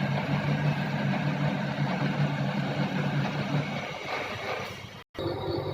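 Vertical turning lathe running under power: a steady low machine hum with mechanical noise. It dies away about four seconds in, then cuts abruptly to a different, steadier hum with higher tones.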